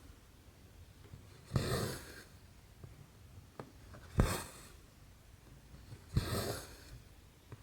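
Needle pushed through cross-stitch canvas and the embroidery thread drawn through after it, three times about two seconds apart: each a sharp tick followed by a short rasp.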